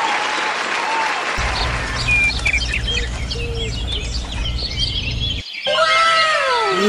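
Layered sound effects: a hiss like applause, then a steady low hum with short bird-like chirps over it, ending with several falling whistle-like glides near the end.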